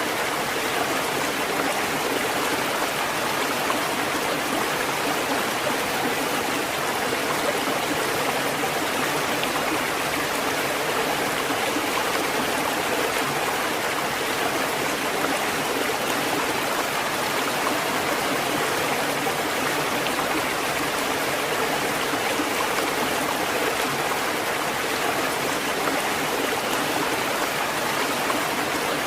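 Steady rushing water, an even, unbroken wash with no rise and fall of separate waves.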